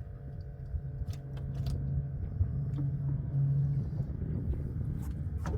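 Steady low motor hum and rumble, with a few small clicks and knocks over it.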